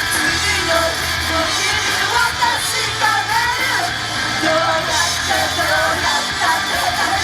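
Loud live pop-rock music from an idol group's performance: a singing voice over a band track with guitars, with some yelled voices.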